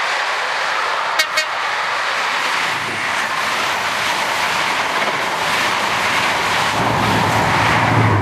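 Passing trains at speed: a rake of coaches, then a modern express on the adjacent track, giving a steady rush of wheel and air noise with some clickety-clack. Two short, sharp toots about a second in.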